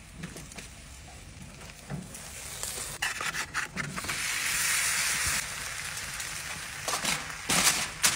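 Sliced potatoes hitting a hot oiled pan and sizzling for about two seconds, with scraping as they slide off a plate. Near the end, aluminium foil crinkles as it is pressed down.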